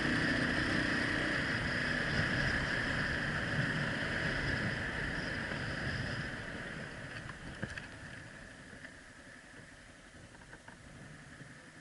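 A motor vehicle engine running steadily, then fading away over the second half, with a few sharp clicks near the end of the loud part.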